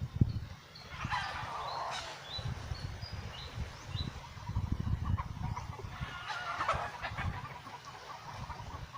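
Bird calls: two rough calls, each about a second long, with short high chirps between them, over a low rumble.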